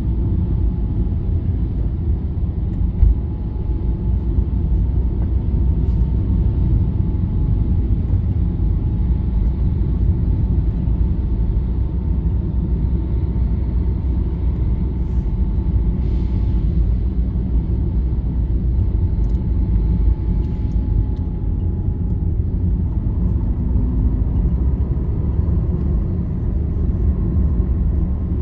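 Steady low rumble of a long-distance bus's engine and tyres heard from inside while cruising on a highway, with a faint, slowly wavering whine above it. There is a brief knock about three seconds in.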